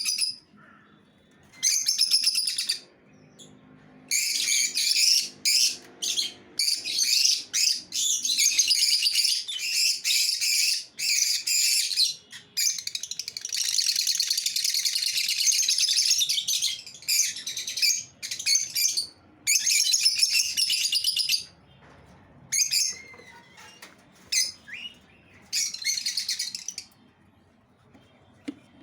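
Lovebirds chattering in shrill, rapid chirps that come in bursts of a second to a few seconds with short pauses between; the longest unbroken stretch of chatter falls about halfway through.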